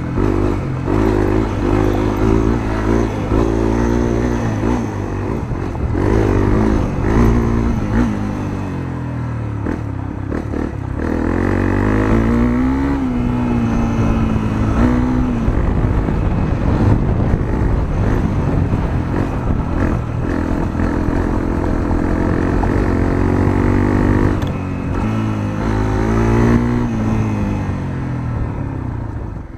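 Honda CRF250L single-cylinder engine running through a Moriwaki aftermarket muffler as the bike is ridden, its pitch rising and falling again and again as the rider opens and closes the throttle.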